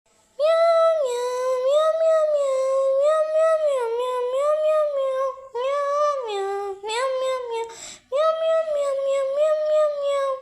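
A very high-pitched voice singing in long gliding phrases, starting about half a second in, with short breaks about five and a half and eight seconds in.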